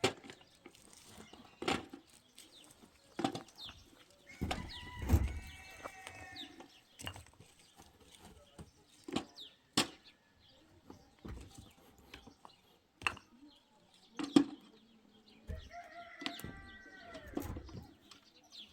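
Domestic chickens around a camp: a rooster crows twice, once about five seconds in and again near the end, among scattered sharp knocks and clatter.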